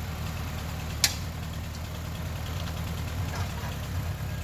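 Vehicle engine idling steadily with a low, even rumble, and a single sharp click about a second in.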